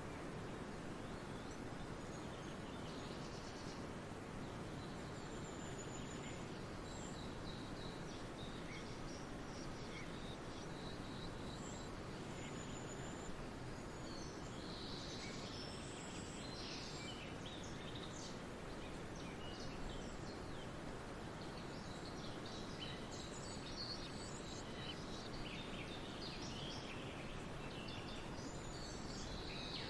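Several songbirds chirping and trilling over a steady background hiss of forest ambience, the calls growing busier about halfway through.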